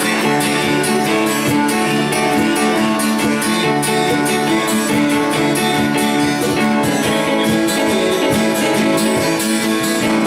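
A band playing a song live, led by strummed guitars keeping a steady rhythm.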